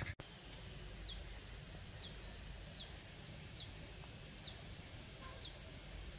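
A bird repeating a short, high call that falls steeply in pitch, six times about a second apart, over a faint low background rumble.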